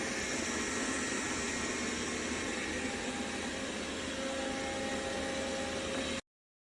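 Dreame L10s Ultra robot vacuum running: a steady whirring hiss of its suction fan with faint steady tones, cutting off abruptly about six seconds in.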